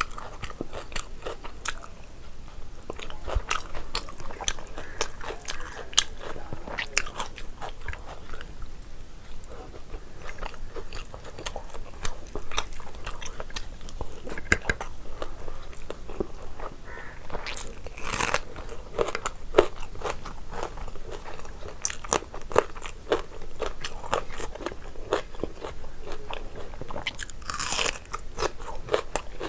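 Close-miked eating sounds of a person chewing biryani: steady chewing with many small crunchy clicks, and two longer, noisier mouth sounds, one about two-thirds of the way in and one near the end.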